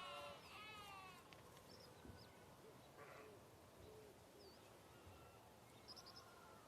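A faint bleat trails off in the first second, followed by quiet outdoor background with a few faint, short, high chirps.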